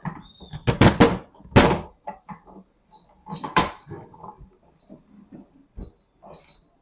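A run of sharp knocks and clanks as tools and parts are handled on an AD-9 air dryer under repair: several loud strikes close together about a second in, two more around the middle, then lighter clicks.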